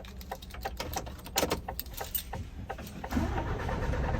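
Light clicks and metallic rattles, then about three seconds in an HGV truck's diesel engine starts and settles into a low idle.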